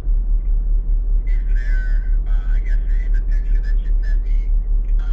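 Diesel engine idling with a steady deep rumble that pulses several times a second, heard from inside a truck cab.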